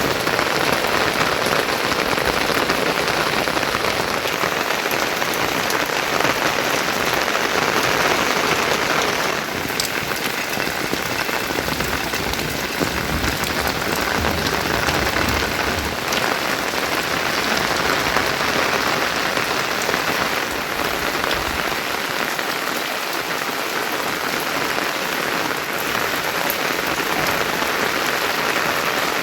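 Heavy monsoon rain falling, a loud, dense, steady hiss of rain on surfaces; its tone changes abruptly about nine seconds in.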